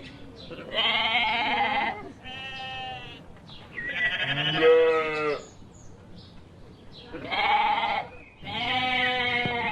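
Sheep bleating: five drawn-out bleats spaced over several seconds, the second one quieter.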